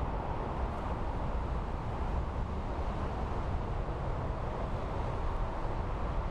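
Steady, even rumbling roar of a Boeing 777 freighter's GE90 turbofan jet engines as the aircraft comes in on approach.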